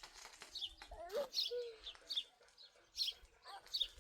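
A small bird repeating short, high, falling chirps about twice a second, and a chicken giving a single call about a second in.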